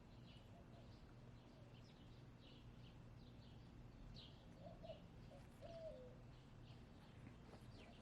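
Faint chirping of wild birds, with a hen's soft call about five seconds in: two short notes, then a longer one that falls at the end.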